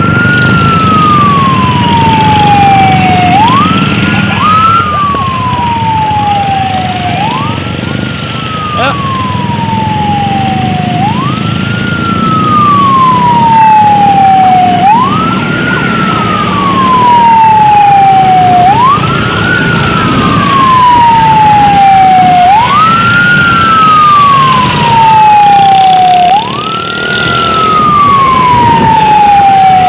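Emergency siren wailing in a slow repeating cycle, each sweep jumping up quickly and then sliding down over about three seconds, with vehicle engine and road noise underneath: the siren of an escort convoy clearing traffic for an ambulance.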